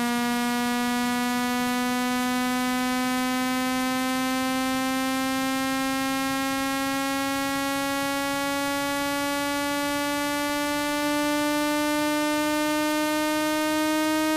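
Electronically generated buzzing tone with many overtones, gliding slowly and steadily upward in pitch. It is a speaker-cleaning tone, played at full volume to vibrate a phone speaker's diaphragm and grille and shake out water and dust.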